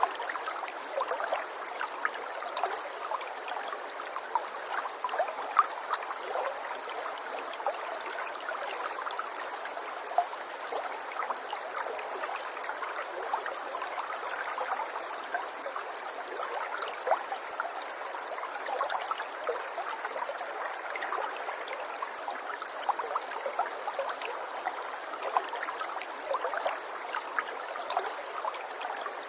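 Running water, a small stream flowing steadily, with many small splashes and droplet sounds over a continuous rush.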